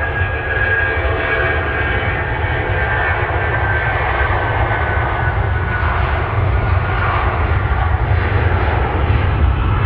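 Jet airliner engines running as the aircraft passes: a steady, loud noise with a deep rumble underneath and a thin whine that slowly falls in pitch, growing a little louder near the end.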